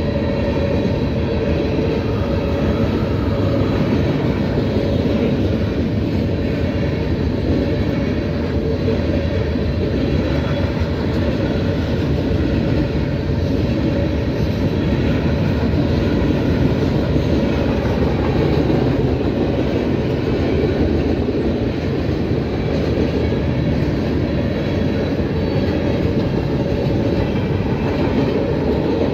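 Freight train cars (boxcars, covered hoppers and tank cars) rolling steadily past: a continuous rumble of steel wheels on rail.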